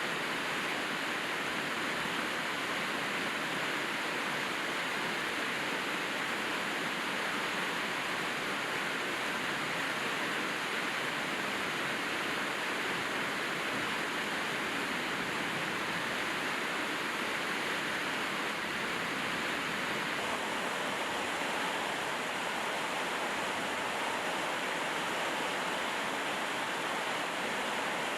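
Steady rainfall, a constant even hiss of falling rain with no single drops or other events standing out.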